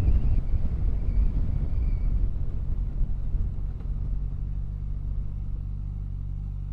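Motorcycle engine and rushing wind. The rumble eases over the first few seconds as the bike slows, then settles into a steady, quieter low engine hum.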